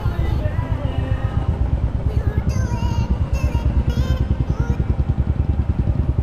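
Motorcycle engine running with a steady, fast, even low pulsing.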